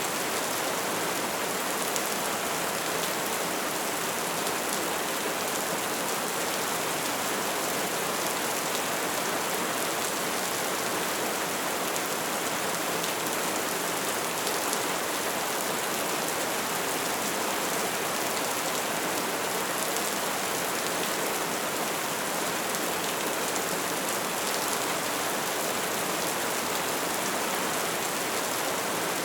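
Bonfire burning with a steady, dense crackle, a continuous hiss of small pops with an occasional sharper crack.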